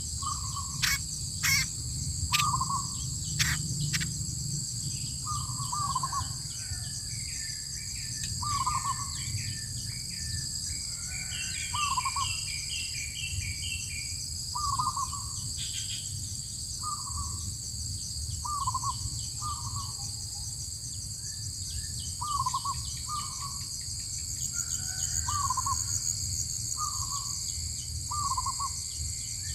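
A bird repeats a short, low call note every one to three seconds over a steady high-pitched insect drone. A few sharp clicks come in the first four seconds, and a quick series of higher chirps about twelve seconds in.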